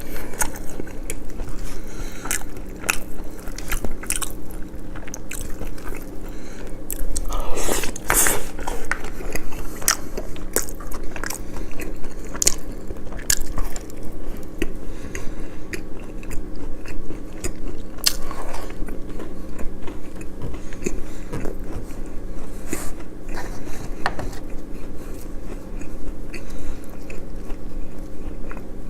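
Close-miked eating sounds: a person biting and chewing crunchy food, with many sharp crunches and a louder run of them about eight seconds in.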